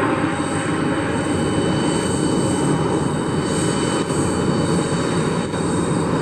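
Jet airliner engines, a steady rumble with thin high whining tones running through it.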